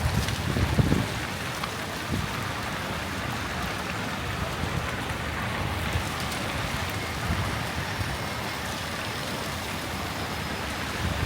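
Heavy rain falling, a steady, even hiss, with a few low rumbles in the first second.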